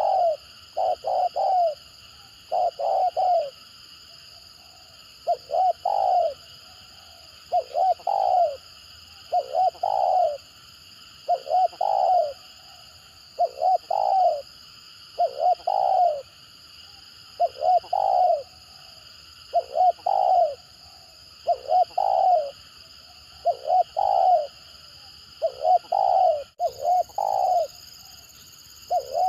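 Spotted dove cooing over and over in the stuttering 'gagap' style, a short phrase of two or three coos about every two seconds. A steady high-pitched drone sits underneath.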